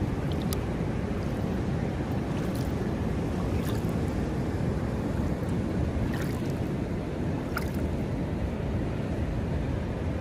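Sea surf washing steadily at the shore, mixed with wind on the microphone, with a few faint ticks of water.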